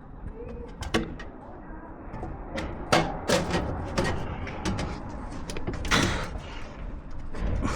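Irregular knocks and clicks of hard objects being handled, sharpest about three seconds in and again near six seconds.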